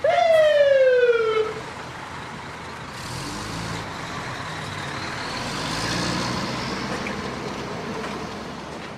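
Fire truck sound effect: a loud siren blast that slides down in pitch over about a second and a half, followed by a steady vehicle rumble that swells slightly and then fades out.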